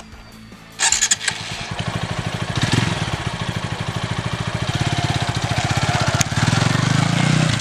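TVS Apache 200 motorcycle's single-cylinder engine started about a second in, then running with a steady pulsing exhaust beat that grows louder about three seconds in.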